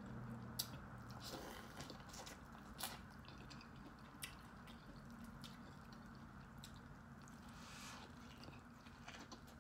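Faint wet chewing and lip-smacking clicks from eating corn on the cob, with a bite into the cob about eight seconds in.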